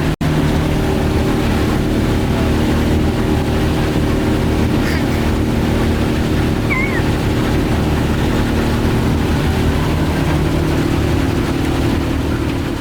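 Motorboat engine running steadily underway, a constant drone, with the rush of water and wind. It drops out for an instant just after the start and fades away near the end.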